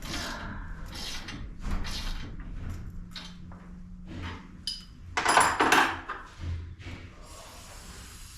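Metal parts and tools clanking and rattling during garage door spring and roller work: a run of short knocks and jingles, with the loudest metallic clatter and ring about five and a half seconds in.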